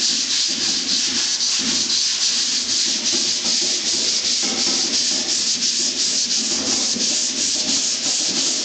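Hand block sanding: a sanding block with 150-grit paper rasping back and forth over polyester primer on a car door panel, dry-sanded, in quick even strokes.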